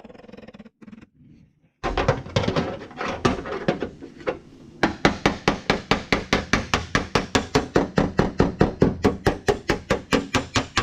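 Metal-working hammer tapping on a car fender's sheet metal. It starts about two seconds in with uneven blows, then settles into a fast, even run of about five ringing taps a second.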